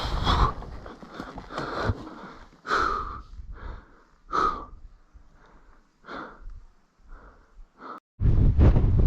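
A person breathing hard close to the microphone: short, heavy breaths at about one a second. Near the end a loud, steady rushing noise cuts in suddenly.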